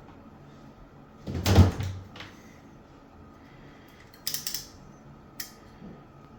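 Handling noise as the untwisted Cat 6 wires are straightened by hand: one dull knock about a second and a half in, then a short cluster of crackly clicks and one more click a second later.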